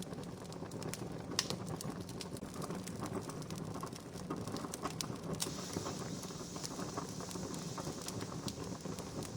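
Wood campfire crackling: a steady bed of burning noise with many sharp pops and snaps. About halfway through a higher hiss joins in.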